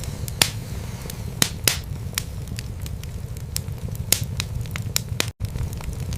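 Wood fire burning in a fireplace: a steady low rumble of flame with irregular sharp crackles and pops from the burning wood. The sound cuts out completely for a split second about five seconds in.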